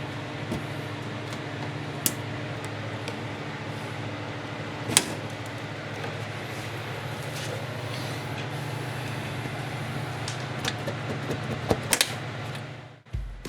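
Steady low hum of shop equipment, with a few sharp clicks and knocks as plastic push pins and clips are worked loose from a car's bumper cover. The hum stops near the end.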